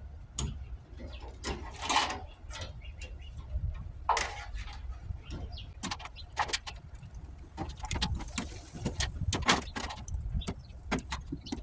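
Wiring being cut and pulled out of an old Ruud furnace: scattered sharp clicks and clanks against the sheet-metal cabinet, with louder scraping about two and four seconds in.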